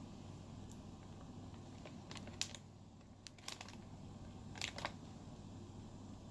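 A few short clicks and crinkles from MRE packaging being handled, in three small clusters about two, three and a half and just under five seconds in, over a low steady hum.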